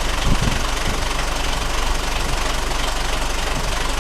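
An engine running steadily at idle, with a brief low thump about a third of a second in.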